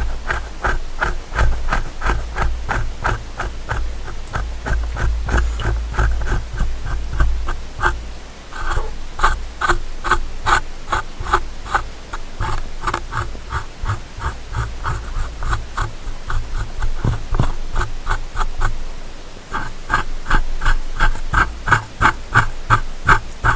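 Ear-cleaning tool, a bamboo ear pick or cotton swab, scratching rapidly inside a binaural microphone's ear, about three to four strokes a second with a low rumble under them. It pauses briefly twice.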